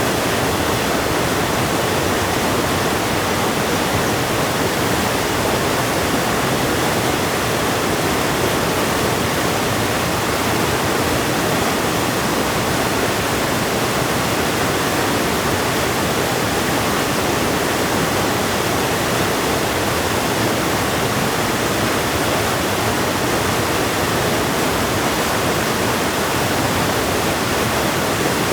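Steady, unbroken rush of a fast-flowing river.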